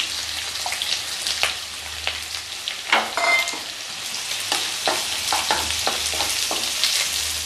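Sliced onions sizzling in hot oil in a kadai, with a metal ladle scraping and clicking against the pan as they are stirred; one brief metallic ring about three seconds in.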